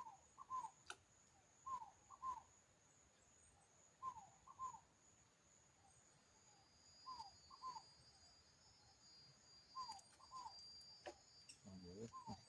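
Faint bird calls: a group of three short falling whistled notes, one then a quick pair, repeated about every two to three seconds. Under them a steady high insect trill.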